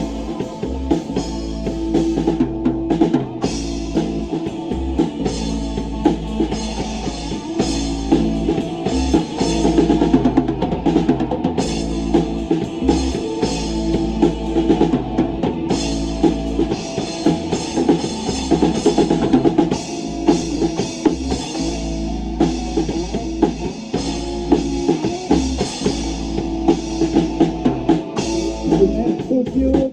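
Rock band playing live: drum kit with bass drum and snare keeping a steady beat under bass and guitar.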